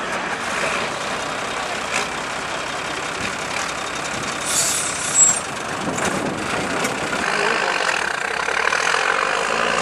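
Trial truck's engine running, building up toward the end, with a short sharp hiss about halfway through.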